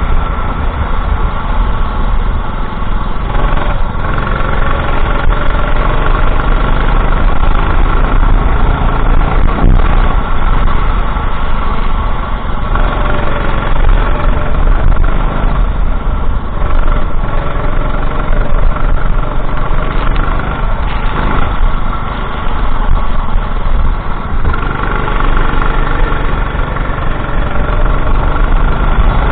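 Racing go-kart engine heard onboard during a lap, its pitch rising and falling as the driver accelerates and lifts through corners, over a heavy low rumble.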